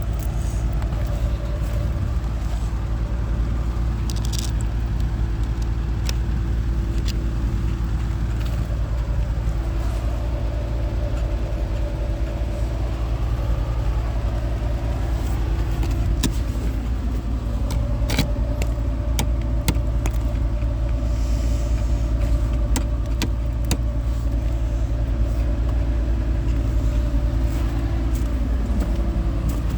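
Car running with a steady low rumble and hum, with a few light clicks and rattles scattered through it.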